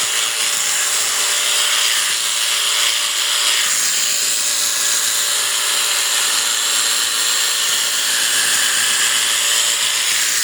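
Electric sheep shears running steadily, a continuous high-pitched buzz.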